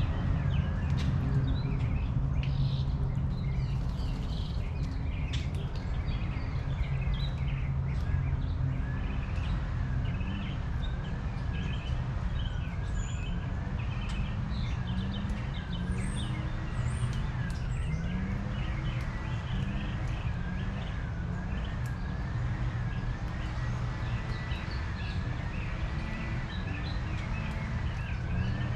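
Several small birds chirping and calling, with many short high chirps over a steady low background rumble.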